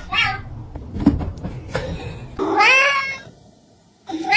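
A domestic cat meowing: one long meow that rises and falls a little past halfway, and another starting right at the end.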